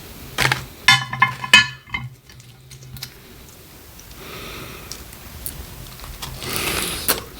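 Close-miked eating: a quick run of crisp crunching bites about a second in, then quieter chewing and a rush of breath near the end.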